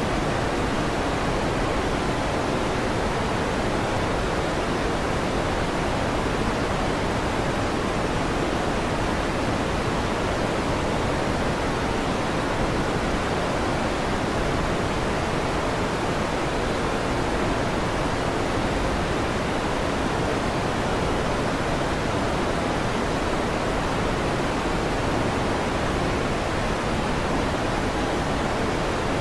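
Electric fan running: a steady, even rushing noise that holds constant throughout.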